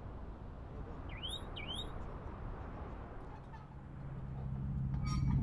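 A small bird chirps twice, in quick rising calls, about a second in, over a low outdoor rumble. From about four seconds in a low steady hum grows steadily louder.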